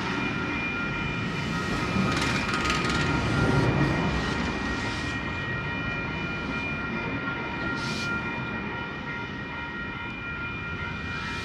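V Set electric train heard from inside its driver's cab: a steady rumble with a constant whine from the train's equipment, which eases off a little in the second half. Short hisses break in about two seconds in and again about eight seconds in.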